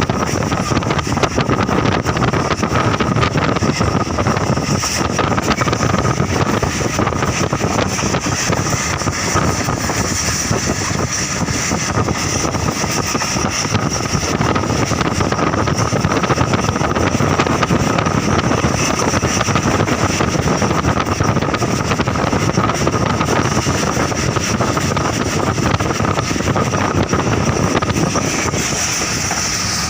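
Moving train running steadily, a continuous rush of wheel and track noise with wind blowing across the microphone and a faint steady whine.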